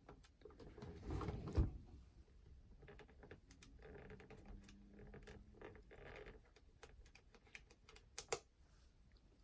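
Small clicks, taps and scrapes of hands and a screwdriver working on a plastic clock radio casing, with a louder knock of handling about a second in and a sharp click near the end.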